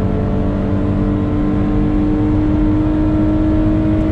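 Car engine heard from inside the cabin, pulling at high revs under acceleration, its pitch rising slowly and evenly, over a steady rumble of road and wind noise.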